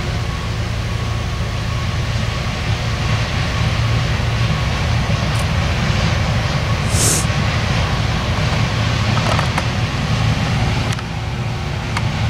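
Steady low rumble of a passing train, with a short high hiss about seven seconds in and a few faint clicks near the end.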